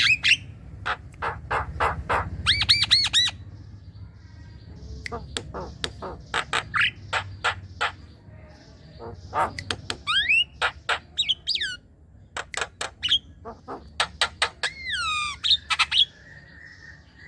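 Javan myna singing: quick runs of sharp, harsh clicks mixed with whistled notes that slide up and down in pitch, broken by short pauses.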